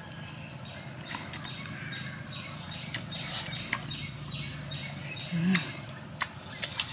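Bird-like chirps repeating in a loose rhythm, with a high falling note about every two seconds and a few sharp clicks mixed in.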